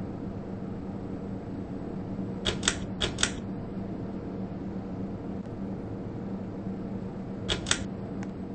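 Super Power Systems Milledgeville 42-inch ceiling fan running with a steady motor hum and airy rush. Short sharp clicks cut in twice: four quick ones about two and a half seconds in, and a pair near the end.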